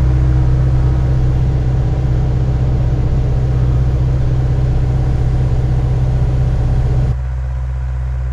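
Diesel engine of a piece of heavy equipment running steadily at working speed, a low even hum with a noisier layer on top. About seven seconds in, the upper layer drops away and the engine hum goes on alone.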